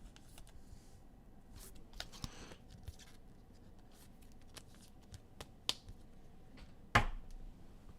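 Trading cards being handled and flipped through by hand on a table, with soft rustling and scattered light clicks of cards against each other. A sharp knock about seven seconds in is the loudest sound.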